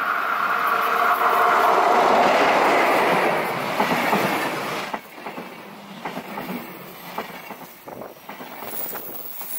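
Train passing on mountain railway track, loudest about two seconds in, with a steady whine in the wheel noise. The sound drops sharply about five seconds in, leaving a quieter, irregular clatter of wheels on rails.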